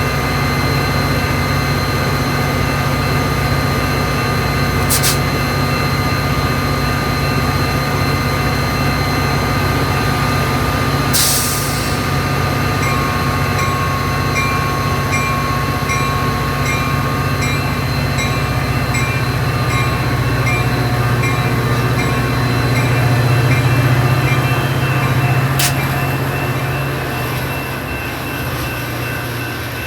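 Metra commuter train's diesel locomotive running with a steady low drone. Through the middle there is a faint ringing that repeats about twice a second, and there are a few sharp clicks.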